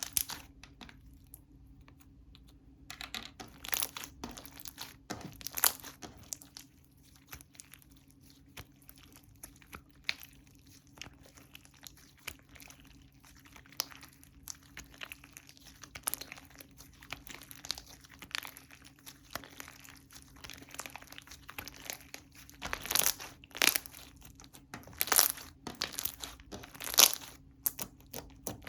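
Slime being squished and stretched by hand, giving a running string of small clicks and crackles with a few louder pops, the loudest ones bunched near the end.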